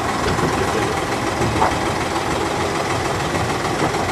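A narrow-gauge passenger train running, heard from aboard an open-sided carriage: a steady rumble and rattle of the wheels and coach on the track.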